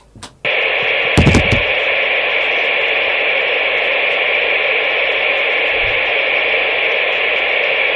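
CB radio receiver static: a loud, steady hiss comes on abruptly about half a second in and holds, with a couple of low thumps about a second in.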